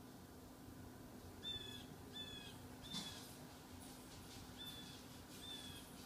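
A bird calling: five short calls, all on the same pitch, three close together and then two more, with a single sharp tap about halfway through.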